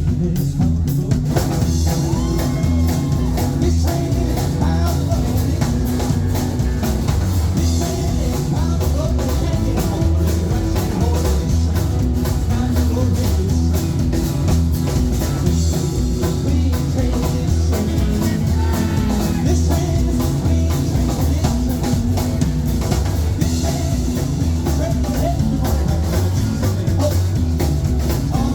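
Live rock and roll band playing a song, with singing over a steady driving beat.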